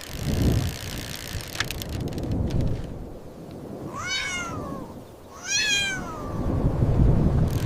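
A cat meowing twice, two high calls that rise and fall in pitch, about four and five and a half seconds in, over a low rumbling in the background.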